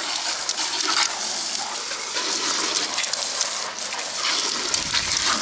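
Garden hose spraying a steady jet of water onto a muddy RC truck, a loud, even hiss as the mud is washed off.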